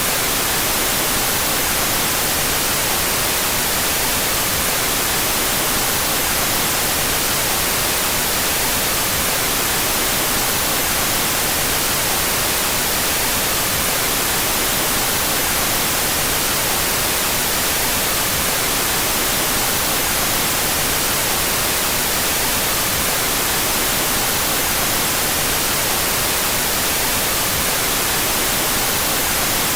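Steady electronically generated white noise, an even hiss with the two stereo channels out of phase.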